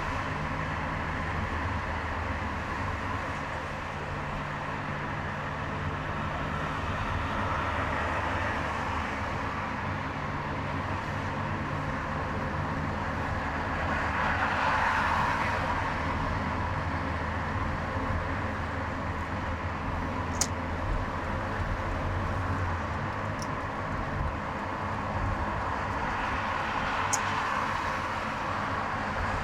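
Car driving on a highway: a steady low engine hum under tyre and traffic noise, which swells about halfway through. Three short sharp clicks come in the second half.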